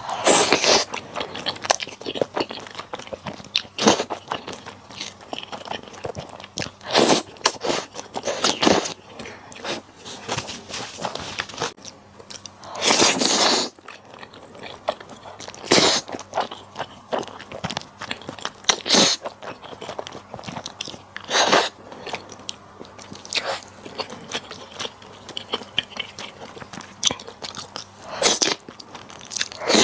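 A person eating malatang close to the microphone: crunchy bites and chewing, with loud irregular strokes every second or two.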